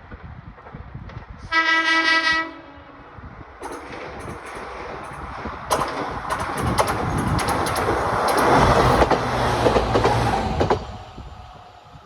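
A train sounds its horn in one loud blast of about a second, then runs past close by for several seconds, its wheels clicking over the rail joints, before the sound drops off quickly near the end.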